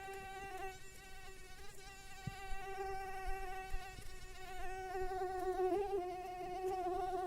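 A flying insect's wings buzzing: one steady, slightly wavering whine that never breaks.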